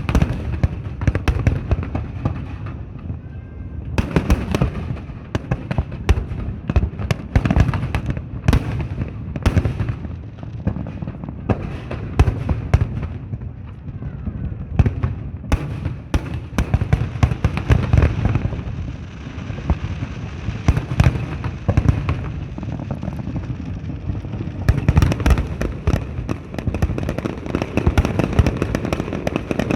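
Aerial fireworks display: a continuous run of shell bursts, deep booms mixed with sharp bangs and crackling. A dense rapid flurry of crackles and bangs sets in about 25 seconds in.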